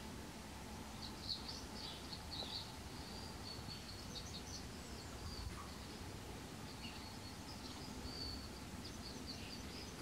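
Small birds chirping in short, high calls scattered throughout, over a faint steady outdoor background hiss.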